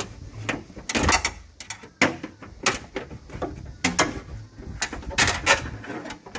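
Irregular clicks, snaps and knocks of a truck door latch assembly being worked by hand, as its cable retaining clips are pushed and pried loose.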